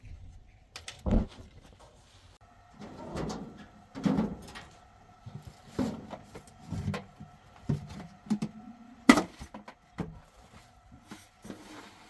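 Irregular knocks, thuds and handling sounds, the sharpest about a second in and about nine seconds in, over a faint steady hum.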